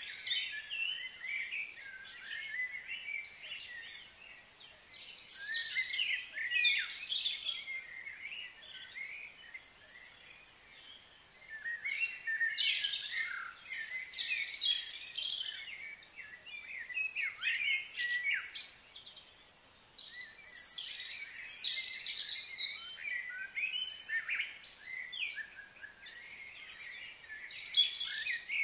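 Wild birds chirping and singing in several bursts of quick, high notes, with quieter gaps between, over a steady outdoor background.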